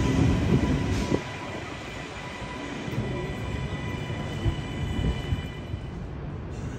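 Train moving along the tracks: a low rumble with scattered knocks and a steady high whine that fades out near the end. The rumble drops to a lower level about a second in.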